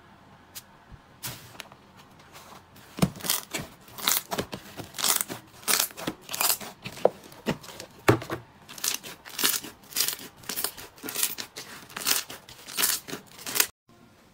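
Slime being squeezed and pressed by hand, giving a quick run of sharp crackles and pops. A few faint crackles come first, the run begins about three seconds in, and it cuts off abruptly near the end.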